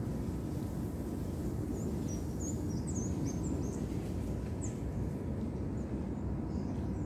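Steady low outdoor background rumble, with a small bird chirping a quick run of short, high notes about two seconds in.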